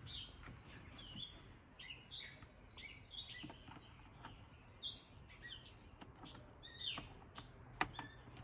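Small birds chirping over and over in short, quick calls, several dropping in pitch. Under them are a few light clicks from a plastic piece being pressed into a motorcycle helmet, the sharpest near the end.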